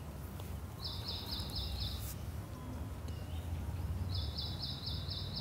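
A bird calling twice, each call a quick run of about five even, high notes, over a steady low background rumble.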